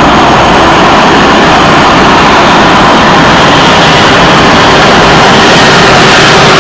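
Jet airliner engines running loud and steady close by: an even rushing noise with a faint steady hum under it.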